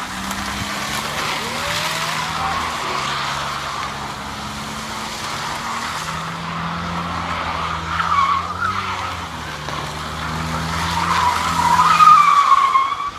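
Car drifting: tyres squealing steadily over the engine's steady running. The squeal wavers in pitch, is loudest about twelve seconds in, and then cuts off suddenly.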